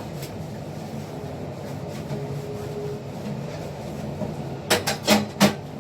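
A steady low hum, with three short sharp knocks of hard objects being handled near the end.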